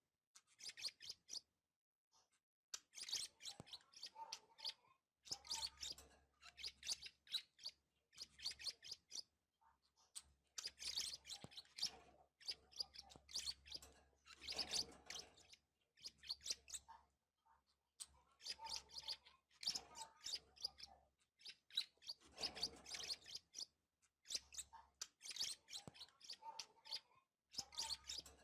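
Budgerigars chirping and chattering in bursts of a second or two, with short pauses between.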